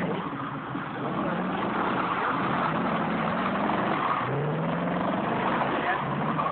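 V8 engine of a Volvo 264 running as the car drives off, its note rising in pitch as it revs up a few times, most strongly about four seconds in.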